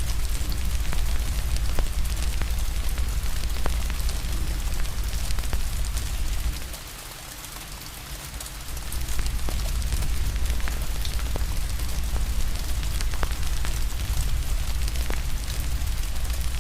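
Steady rain hiss mixed with a crackling fire, scattered sharp pops over a deep low rumble. The low rumble drops out for about two seconds midway, then comes back.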